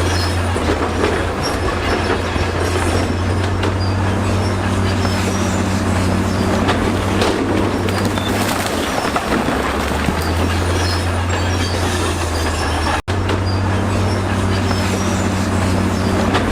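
Crawler bulldozer working: its diesel engine runs steadily under load while its steel tracks clank and squeal.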